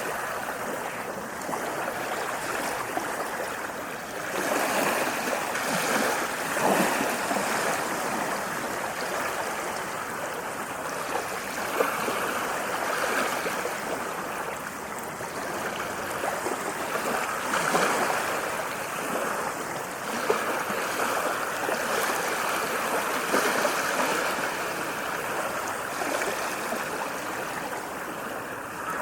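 Sea waves washing in: a continuous rush of water that swells every five or six seconds as each wave breaks.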